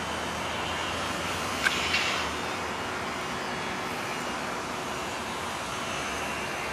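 Volkswagen Bora's 1.6-litre four-cylinder engine running at a steady idle just after start-up, with a short click and brief louder burst about two seconds in.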